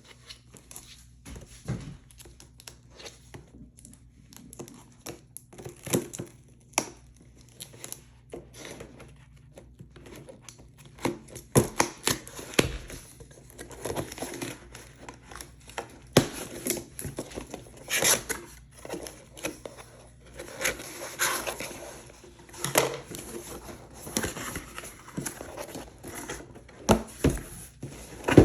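Product packaging being opened and handled: irregular crinkling, rustling and tearing, mixed with clicks and knocks, busier from about ten seconds in.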